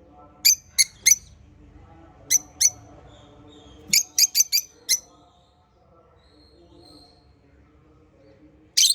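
Small pet parrots giving short, sharp, shrill chirps in loose groups: three in the first second, two more, then a quick run of five, and one last chirp near the end. Faint, continuous chattering runs underneath.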